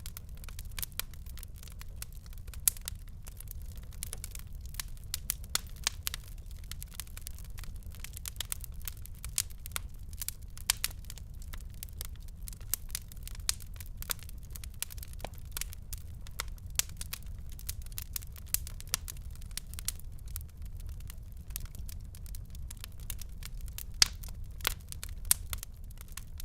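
Wood fire crackling in a fireplace: a dense, irregular run of small sharp pops and snaps, with a few louder pops, over a steady low rumble.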